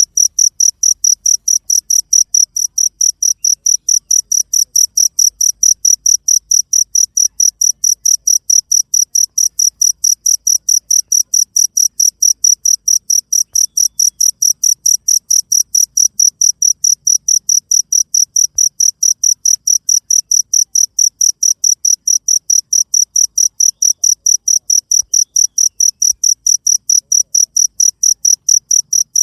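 Cricket chirping steadily in an even, unbroken rhythm of about four high-pitched chirps a second.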